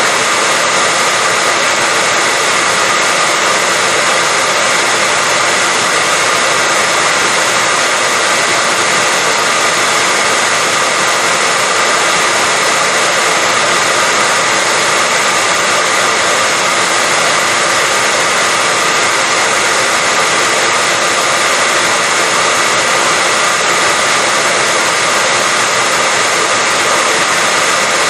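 Hair dryer running steadily: a continuous, even rush of blown air with a faint steady whine from its motor, unchanging throughout.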